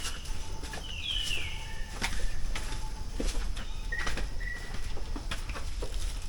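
Footsteps at a steady walking pace, with forest birds calling over them: a falling whistled note about a second in, and two short even whistles around four seconds in.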